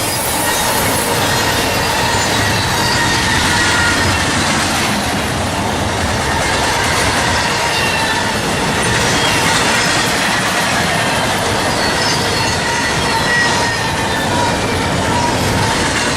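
Norfolk Southern freight train cars rolling past, steady and loud, with thin high wheel squeals over the rumble of the wheels on the rails.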